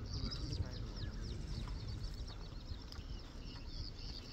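Small birds chirping in quick, repeated high-pitched notes that fall in pitch, over a low steady rumble.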